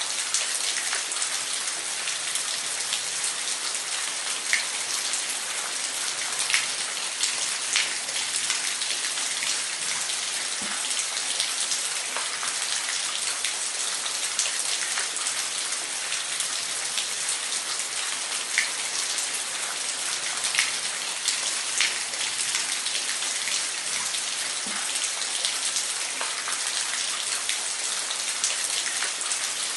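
Falling water: a steady hiss, strongest in the high range, with scattered sharp drops and splashes.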